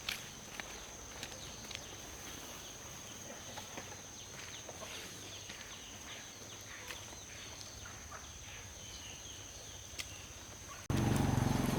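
Faint rural background with a steady high-pitched whine, scattered small clicks and faint chicken clucks. Near the end it cuts abruptly to a loud motor running with a pulsing low note.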